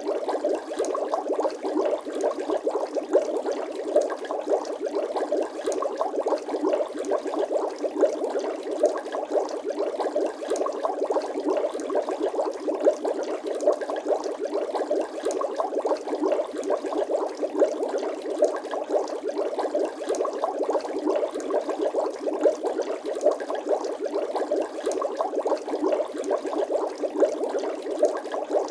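Water bubbling steadily, a dense stream of small bubbles popping many times a second, with no deep low end.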